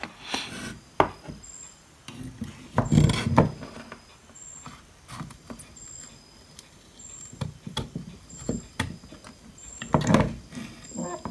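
Scattered clicks, taps and knocks of hand tools working on a circuit board during desoldering, with louder knocks about three seconds in and near the end. A faint short high pip repeats about once a second.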